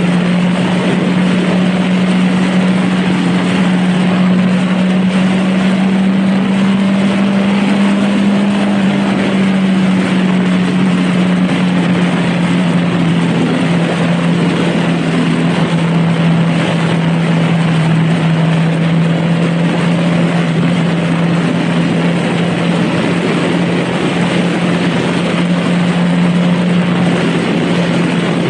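Honda Rebel motorcycle engine running at a steady cruise, its note dropping slightly about a third of the way in and then holding steady, under heavy wind and road noise.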